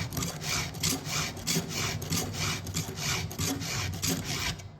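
Chainsaw file in an Oregon file guide rasping across a saw-chain cutter tooth in quick, even strokes, about three a second, stopping shortly before the end: hand-sharpening the last tooth of the chain.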